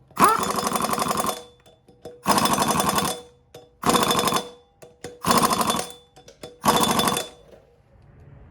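Impact wrench hammering in five bursts of about a second each, with short pauses between, as bolts are run in on the wheel.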